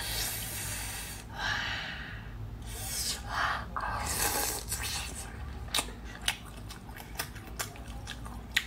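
Close-up eating sounds from a peeled cooked prawn being bitten and chewed: several short, noisy rushes of breath or sucking over the first four seconds or so, then a run of small sharp clicks and smacks from chewing.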